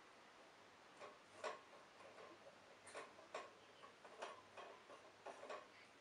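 Faint, irregular clicks and ticks from the canary's cage, about a dozen soft ones spread over a few seconds, with no song.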